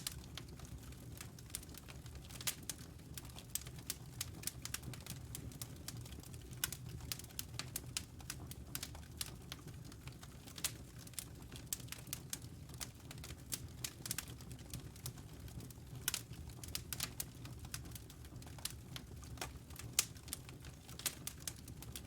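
Wood fire crackling in a fireplace: a dense, irregular run of sharp pops and snaps over a steady low rumble of the burning logs.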